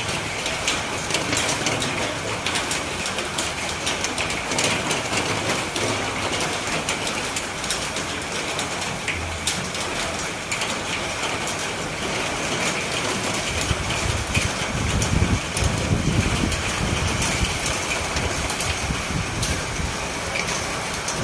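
Steady heavy rain, a dense hiss with many sharp drop ticks. About two thirds of the way in, a low rumble joins and swells for a few seconds.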